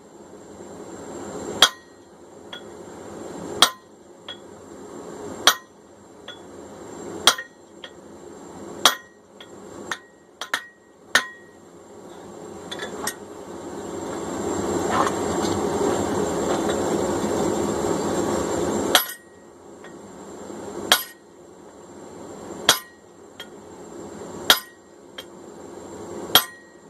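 Single hammer blows on a hot hammer-head billet on an anvil, one sharp ringing strike about every two seconds with a few lighter taps between, as the cheeks of the forged cross peen head are shaped. For several seconds in the middle the blows stop and a steady rushing noise takes over, then the strikes resume.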